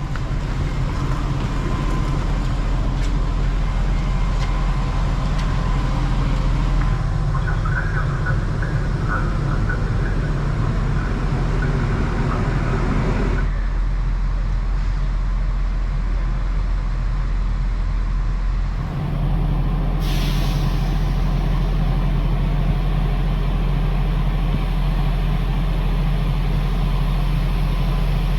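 Regional passenger train running, a steady low drone with an engine-like hum under rumble and rattle. The sound shifts abruptly twice, about a third of the way through and again a few seconds later.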